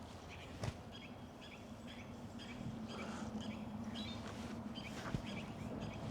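A small bird repeating a short high chirp about twice a second, over a steady low hum and a few scattered clicks.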